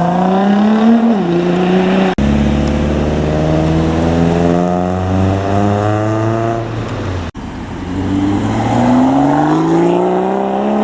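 Car engines accelerating hard, the engine note climbing in pitch and dropping back at gear changes. It breaks off abruptly twice, about two seconds in and about seven seconds in, and each time another stretch of revving engine picks up.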